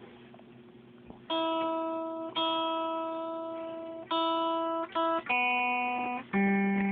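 A single instrument with a clean tone plays six sustained notes one at a time, starting about a second in. Each note fades slowly and is stopped short before the next.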